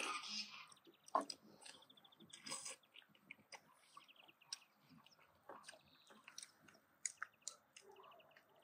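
Soft chewing and biting into roast turkey, with scattered short clicks.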